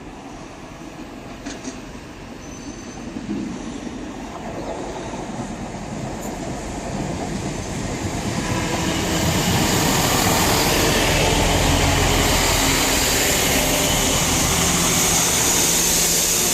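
Class 166 Turbo diesel multiple unit running into the platform, growing steadily louder over about the first nine seconds and then holding at a steady level.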